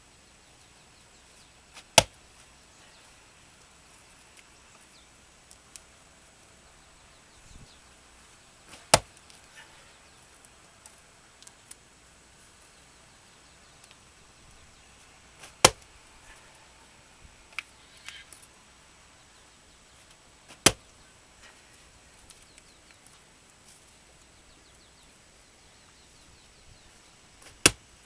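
Axe blows into a dried larch round, five single strikes spaced six to seven seconds apart, each a sharp crack. The softwood resists: struck in the centre, the resinous larch does not split easily.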